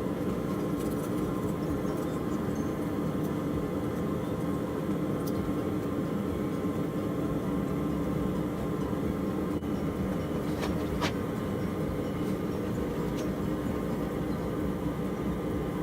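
A forge running steadily during heat treating: an even rush of burner or blower noise with a low hum, and a couple of faint metal clicks about two-thirds of the way in.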